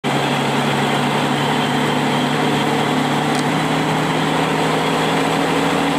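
A vehicle's engine running steadily while driving on the highway, heard from inside the cab, with a steady hiss of road noise over its low hum.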